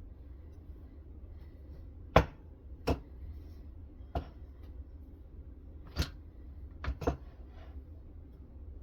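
About six sharp clicks and knocks at irregular intervals, from hard parts of a clamp-type knife-sharpening rig being handled, with a close pair near the end. A low steady hum runs underneath.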